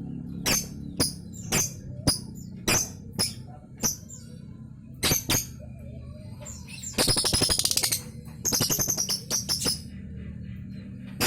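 Lovebird singing. Sharp high chirps come about twice a second, then around seven seconds in there is a fast rattling trill of about a second, followed by another shorter run. This is the trilled 'ngekek' chatter of a lovebird still learning its song.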